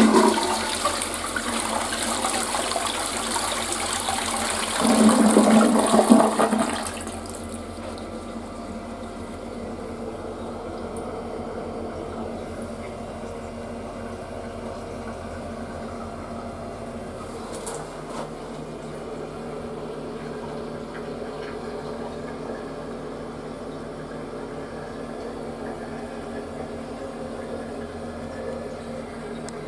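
Western-style toilet flushing: a loud rush of water that starts abruptly and swells about five seconds in, then drops after about seven seconds to a quieter, steady sound of the tank refilling.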